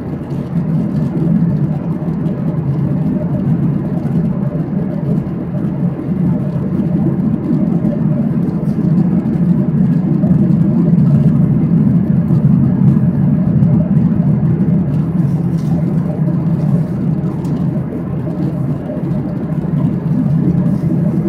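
Steady low drone inside the cabin of a Boeing 737-800, from its CFM56 engines and the air rushing past the fuselage, dipping slightly for a moment near the end.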